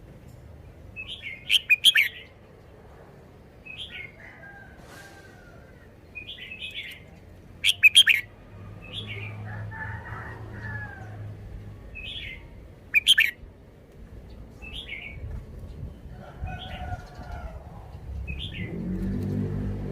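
Red-whiskered bulbul singing short, repeated phrases every second or two, with three much louder, sharp bursts spread through.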